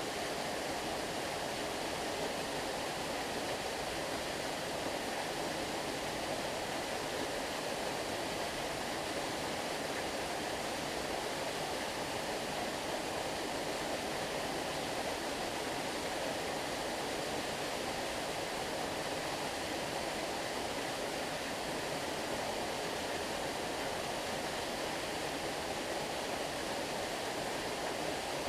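Stream water flowing, a steady rushing that does not change and has no separate events standing out.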